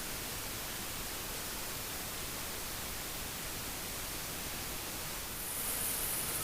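Steady rush of wind noise on the rider's microphone while riding a motorcycle at highway speed, with no engine note standing out. About five and a half seconds in, a higher hiss joins and it gets a little louder.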